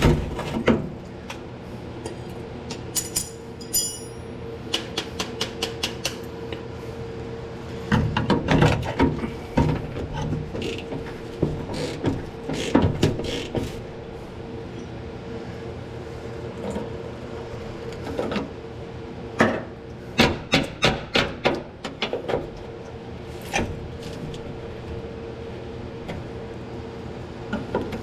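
Hand tools working rusted bolts: bursts of rapid ratchet clicking and metal clinks and knocks, over a steady background hum.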